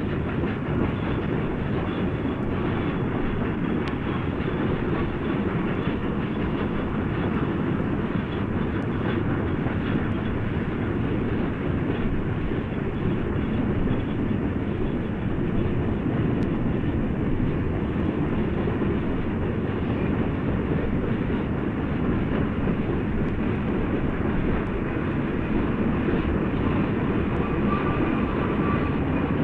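A steam-era train running by: a steady rumble of wheels and cars on the rails, with no let-up. It is an old recording whose sound stops above about 4 kHz.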